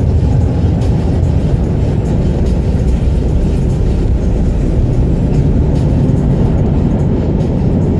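Automatic car wash machinery running, heard from inside the car's cabin as a loud, steady, low rumble.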